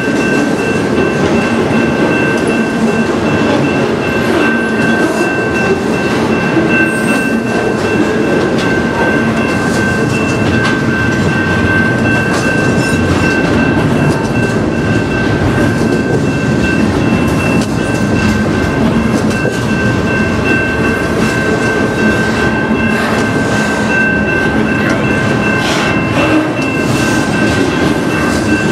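Double-stack intermodal container well cars of a freight train rolling past close by, wheels rumbling and clattering on the rails, with a steady high-pitched tone over the noise.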